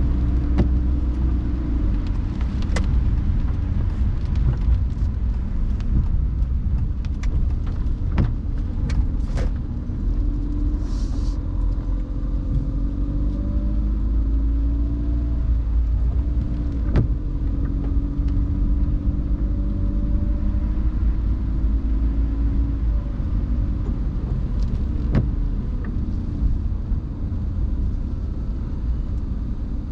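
Car driving on a wet road: a steady low rumble of engine and tyres, with a faint engine tone that rises and falls gently through the middle. Scattered sharp ticks come in the first third.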